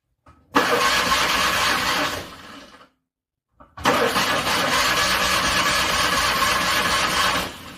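Car engine being cranked in freezing cold, struggling to start, in two attempts. A short click comes before each: about a second and a half of cranking that trails off, then after a brief silence about three and a half seconds more that fades away near the end.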